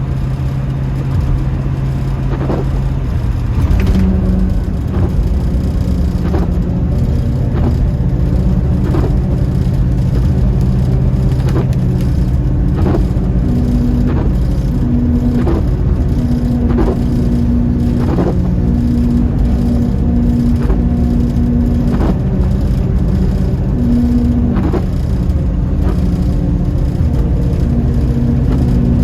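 1972 Ford Mustang Mach 1 cruising, heard from inside the cabin: a steady engine drone and tyre noise, with its pitch shifting about three to four seconds in, and light ticks roughly once a second.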